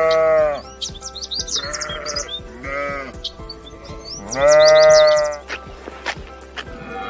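Sheep bleating: four bleats, two short ones in the middle and a long, loudest one a little past halfway, with quick high-pitched chirps above them.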